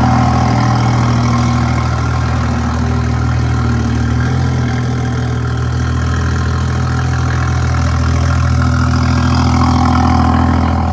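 2015 BMW 435i's turbocharged straight-six engine running steadily at low revs, close to idle.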